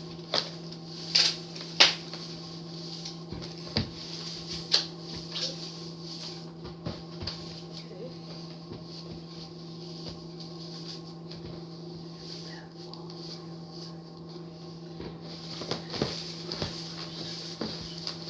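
Moss being torn apart and pressed into place by hand: irregular rustling with scattered sharp clicks and taps, several close together in the first two seconds and again near the end. A steady low electrical hum runs underneath.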